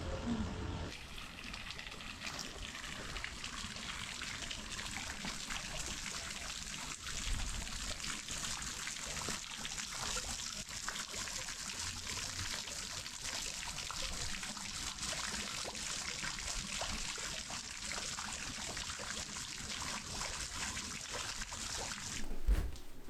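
Steady sound of running water, a continuous trickling hiss, which cuts off abruptly near the end.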